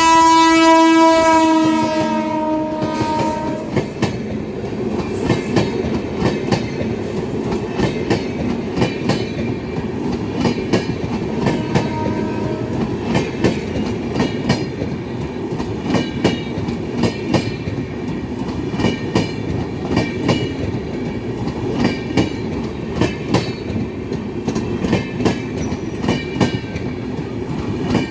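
WAP7 electric locomotive's horn sounding for about three and a half seconds, then the Rajdhani Express coaches rolling past at slow speed: a steady rumble with regular clickety-clack of wheels over rail joints.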